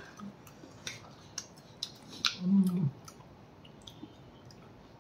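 Close-up mouth sounds of people eating: scattered wet smacks and clicks of chewing. About two and a half seconds in there is a short hummed voice sound, and the last two seconds are quieter.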